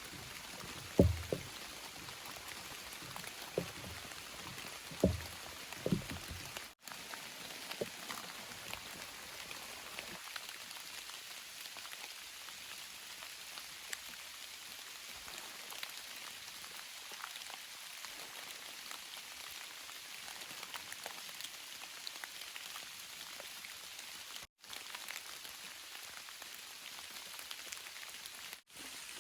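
Steady rain pattering, with fine drips ticking through the hiss. A few louder low thumps come in the first six seconds or so.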